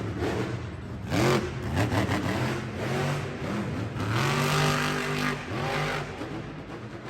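Monster truck engine revving in several bursts, its pitch climbing and dropping, with the longest rev held high for about a second and a half past the middle before falling away.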